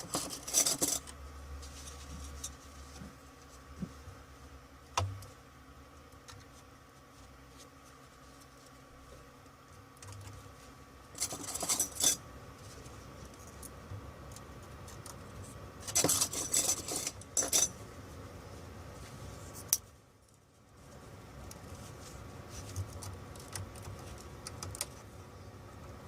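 Small hard objects clinking and rattling in a few short clusters of clicks, over a faint steady hum.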